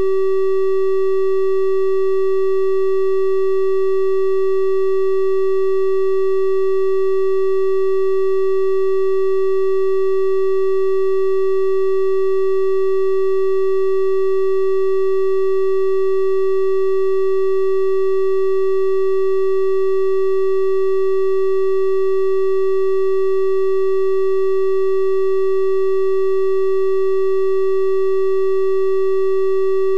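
A synthesized 384 Hz triangle-wave tone, held steady and unchanging, with a soft buzzy edge from faint higher overtones.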